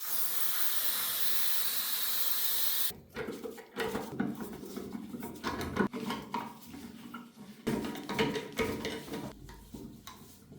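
A steady hiss that cuts off suddenly after about three seconds, followed by irregular metallic clinks and knocks of tools and parts being handled on a workbench.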